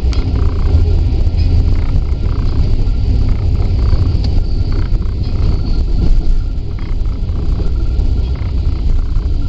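Amtrak California Zephyr passenger train rolling along the track, heard from aboard: a loud, steady low rumble of wheels and running gear on the rails, with a few faint clicks.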